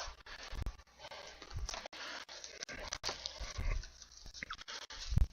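Cardboard card boxes and wrappers being handled and opened, rustling and crinkling with scattered small clicks. There is a louder low thump near the end.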